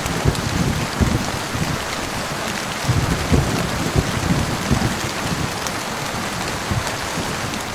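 Steady heavy rain falling, with low rumbles of thunder in the first second and again around three to four seconds in.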